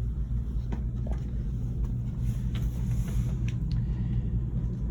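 Steady low hum of an RV's rooftop air conditioners running, with a few faint clicks and taps over it.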